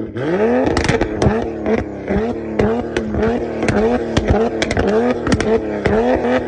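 Toyota Supra's engine revved in quick repeated blips, about one a second, with sharp exhaust pops and crackles between the revs.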